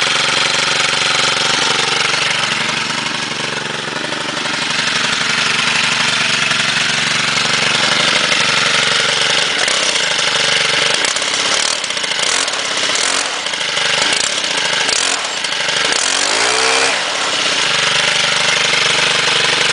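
Stihl FS 90 R string trimmer's 28.4 cc 4-MIX engine running steadily just after a cold start, its speed rising and falling a few times in the second half.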